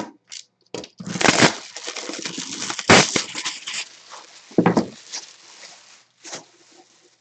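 Box packaging being torn open by hand: crinkling and tearing of wrapping and cardboard, broken by a few sharp knocks, trailing off near the end.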